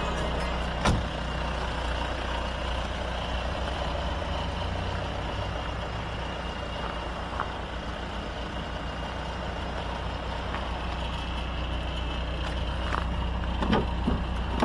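Opel Omega 2.0 DTI four-cylinder turbodiesel engine idling steadily, with a few sharp clicks over it.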